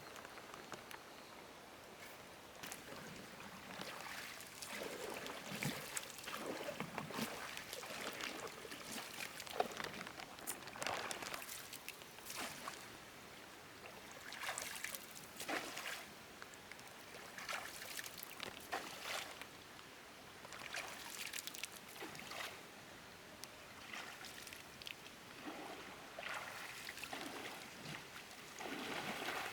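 Water splashing and sloshing in irregular bursts, about one every second or two.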